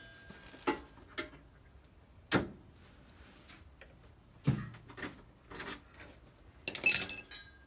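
Scattered sharp knocks and clicks of metal tools and bolts being handled during rear subframe bolt removal, ending in a ringing metallic clink.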